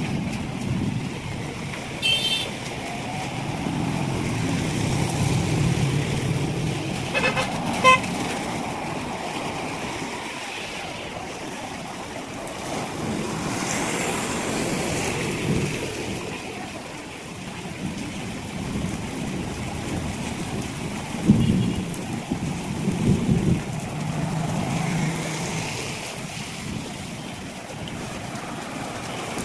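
Wet-street vehicle traffic with a steady low wash of noise, and short horn toots about two and eight seconds in.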